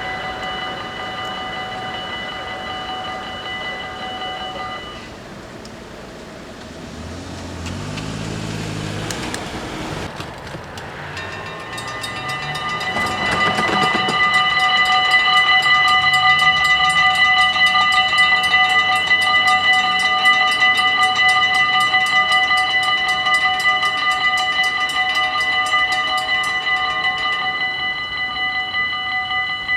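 Dutch automatic level-crossing warning bells ringing with a steady tone. They stop about five seconds in, while a train passes with a low hum that rises in pitch. From about twelve seconds the bells ring again, louder, with rapid even strikes.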